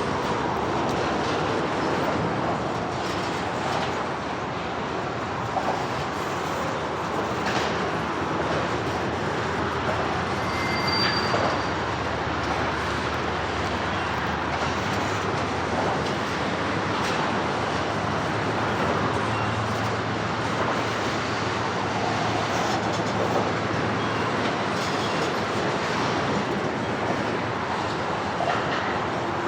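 A CSX train rolling past with steady rail and wheel noise, a brief high-pitched squeal about eleven seconds in.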